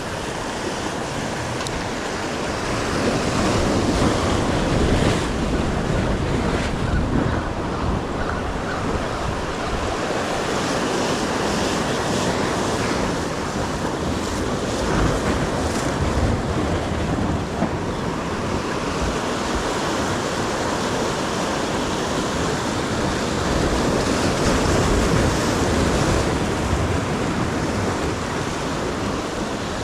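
Ocean waves washing onto the shore, rising and falling slowly, with wind buffeting the microphone.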